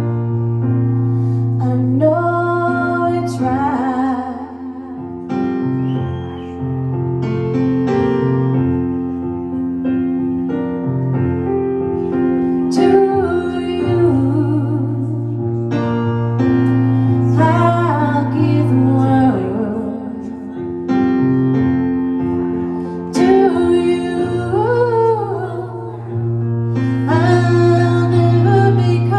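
A woman singing a slow song, held and sliding notes over piano accompaniment.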